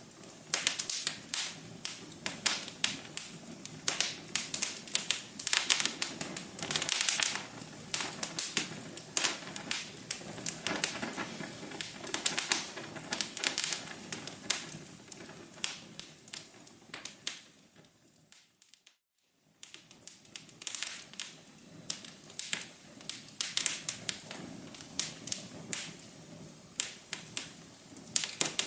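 Fireplace fire crackling, with a dense run of sharp pops and snaps over a soft hiss. About two-thirds of the way through it fades almost to nothing, then comes back abruptly at full strength.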